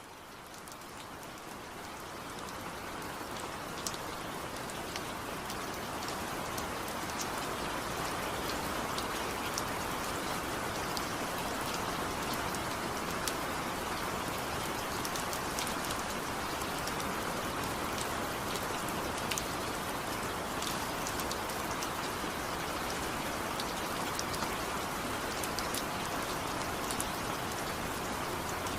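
Steady rain falling, with scattered sharp drop ticks over the hiss of the downpour. It fades in over the first several seconds, then holds even.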